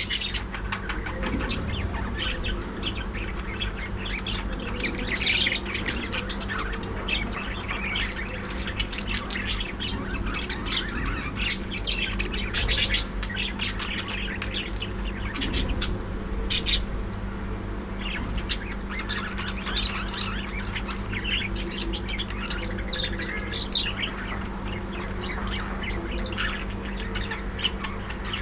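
A colony of budgerigars chattering: many overlapping chirps and squawks without pause, over a steady low hum.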